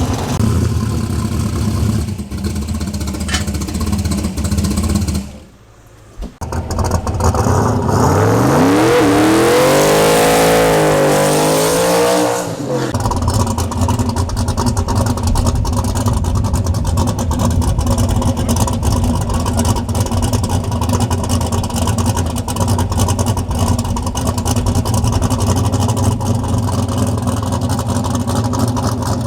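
Turbocharged V8 drag car engine running at a steady low speed, cut briefly, then revving hard with the pitch climbing for about five seconds before dropping back to a steady low running.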